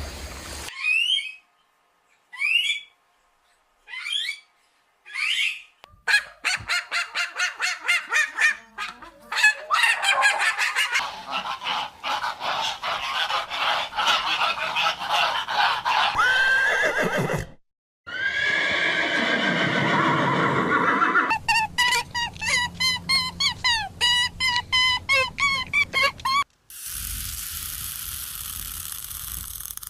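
A succession of different animal calls: four short separate calls, then long runs of rapid repeated calls, ending in a steady hiss-like noise.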